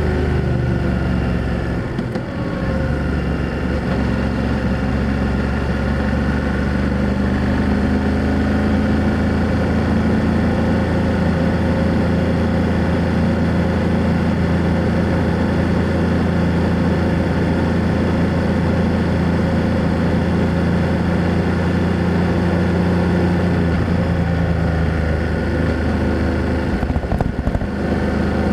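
BMW F800GS motorcycle's parallel-twin engine running under way through its exhaust. The engine note dips briefly about two seconds in, rises slightly a few seconds later, and dips again near the end.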